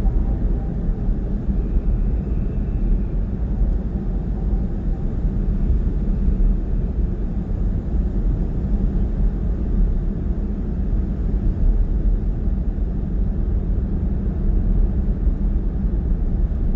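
Steady low rumble of a car driving along, road and tyre noise with engine drone, even and unbroken throughout.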